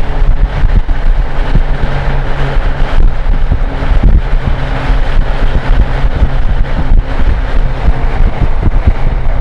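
Cummins NHC-250 inline-six diesel of an AM General M923A1 army truck running steadily under way, with wind buffeting the microphone.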